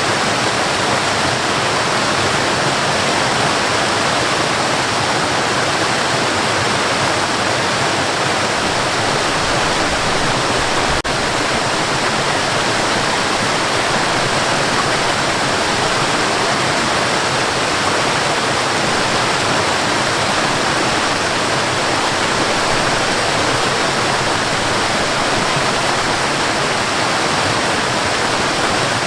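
Waterfall: a steady, even rush of falling water, with one brief dip about eleven seconds in.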